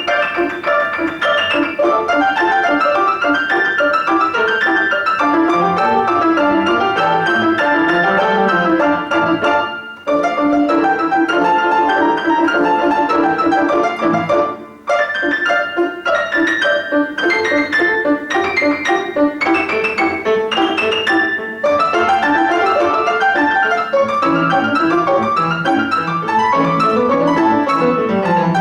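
Piano playing a flowing piece of quick, dense notes, with brief breaks about ten and fifteen seconds in and a passage of repeated struck chords around twenty seconds in.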